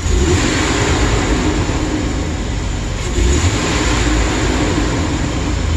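2008 Chevrolet Express van engine running and surging louder twice, at the start and again about three seconds in. The owner diagnoses a lean misfire on cylinder number one.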